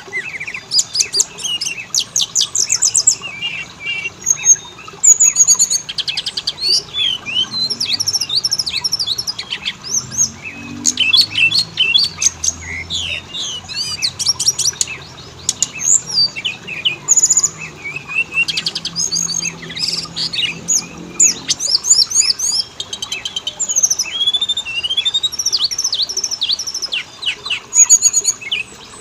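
Oriental magpie-robin (kacer) singing a fast, varied song of sweet whistles, rapid trills and harsh chattering notes, with only brief pauses.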